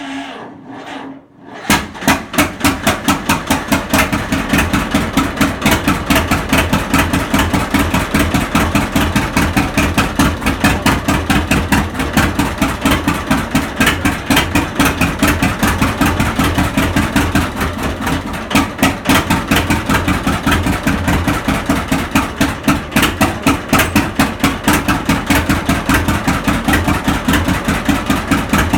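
Cold start of a 1952 John Deere A's two-cylinder engine. It cranks slowly for a moment, catches about two seconds in, and then runs steadily with a rapid, even popping beat.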